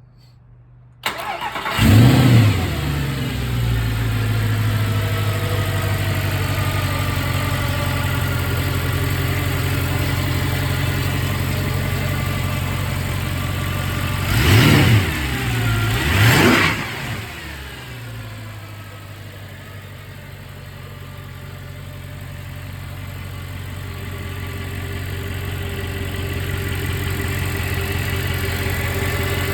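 Mercedes-Benz SLS AMG Roadster's 6.3-litre naturally aspirated V8 starting about a second in with a flare of revs, then settling into a fast idle. About halfway through there are two quick throttle blips some two seconds apart, after which the idle drops to a lower, steady note.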